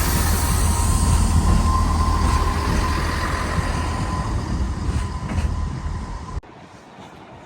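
A train running through the station with a heavy low rumble and a steady high-pitched squeal over it. The sound stops abruptly about six seconds in, leaving a much quieter background.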